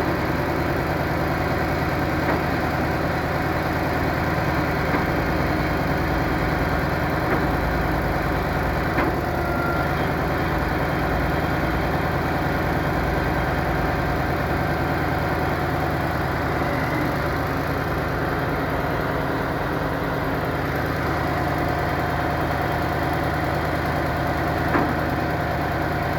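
Concrete pump truck's engine idling steadily, an even running hum with a few faint clicks.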